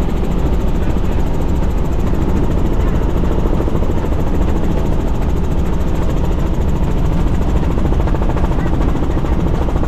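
Helicopter engine and rotor noise, a loud steady drone that holds unchanged.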